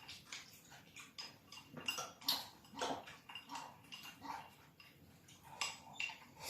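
Tableware clinking during a meal: bowls, plates and chopsticks knocking together in a run of irregular light clicks and clinks.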